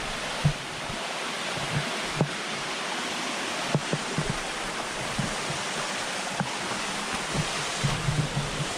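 Waterfall rushing steadily close by, with a few brief, soft knocks scattered through.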